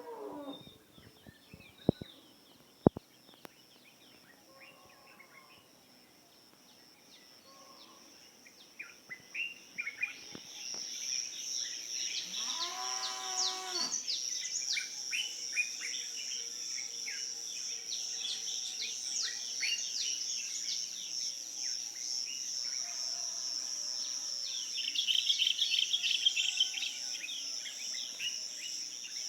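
Dawn chorus of many small birds chirping over a steady high insect drone, both swelling after about ten seconds. A cow moos once, for about two seconds, near the middle.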